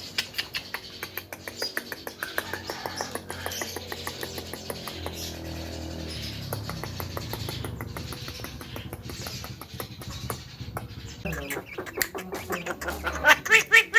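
Javan myna chattering: a fast run of clicks and short varied notes, rising near the end into a string of loud, repeated calls.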